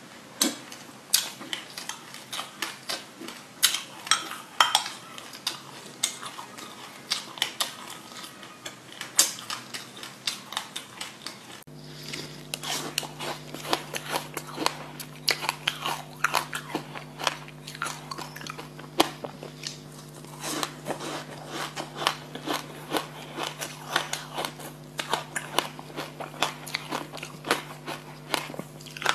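Close-miked eating of black sesame seeds with passion fruit: rapid, crisp crackles and clicks of biting and chewing. About twelve seconds in, a steady low hum joins.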